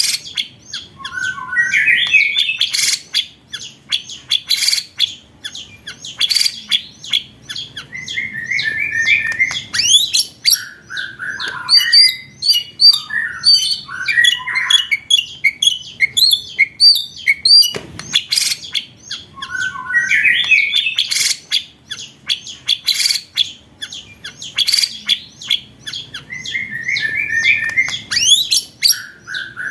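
Songbird contest-training ('masteran') recording: rapid clicking, chattering rolls and quick rising whistled phrases, the sequence repeating about every 19 seconds.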